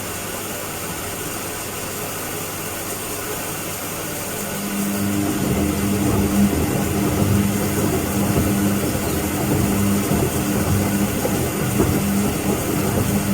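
Washing machine running. A low, steady hum gives way about four and a half seconds in to the drum motor starting up: a steady motor hum over the rough, churning noise of the drum turning its load.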